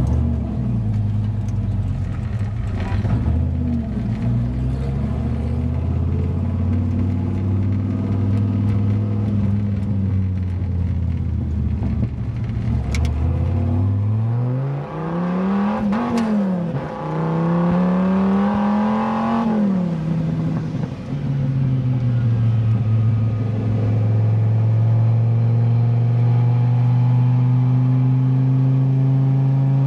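Dodge Viper SRT-10's V10 with a modified exhaust, heard from inside the open cockpit: it runs at low revs, then about 14 seconds in revs up hard, drops as it shifts gear, and pulls up again. It then settles into a steady drone that slowly rises in pitch.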